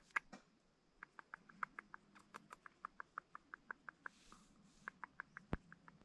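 A small animal giving short, even chirps over and over, about five a second, with one sharp click about five and a half seconds in.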